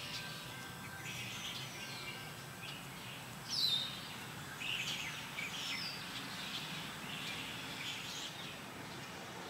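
Several birds chirping and calling over a faint steady background hiss. The loudest is a short call sweeping downward about three and a half seconds in. A few held tones die away in the first two seconds.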